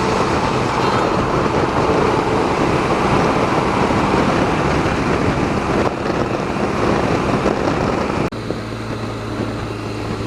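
Motorcycle riding at highway speed: heavy wind rush over the microphone with engine and road noise underneath. About eight seconds in the wind noise drops abruptly, leaving a quieter, steady low hum.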